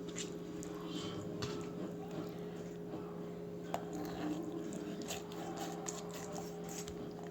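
Faint knife work on a raw chicken: soft wet squishes of skin and meat being handled and cut, with scattered small clicks and scrapes, over a steady low hum.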